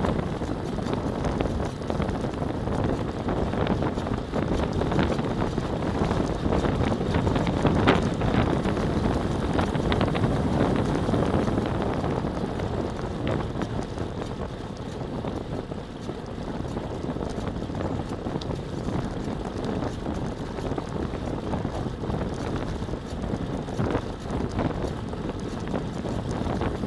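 Wind buffeting the camera microphone during a fast downhill run: a steady, loud rushing rumble.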